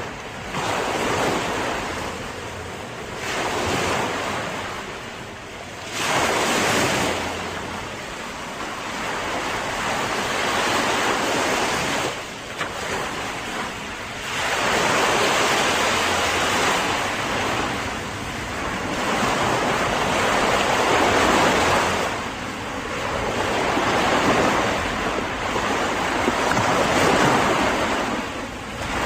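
Sea waves breaking and washing up the shore, the surf swelling and easing every few seconds.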